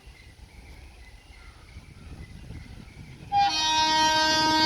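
Indian Railways electric locomotive air horn sounding one long, loud, steady blast that starts abruptly about three seconds in, after a quiet stretch of low background rumble.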